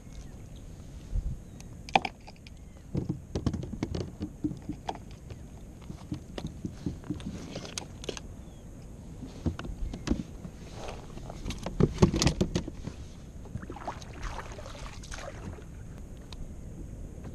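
Water sloshing around a kayak's hull, with irregular knocks and clatter against the boat. The loudest knocks come about 2 and 12 seconds in.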